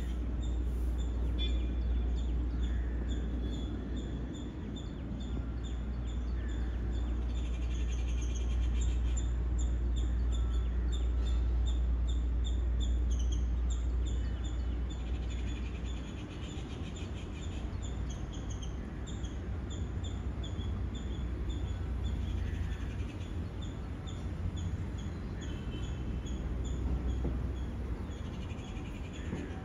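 Small birds chirping rapidly and repeatedly over a steady low rumble, which eases off about halfway through.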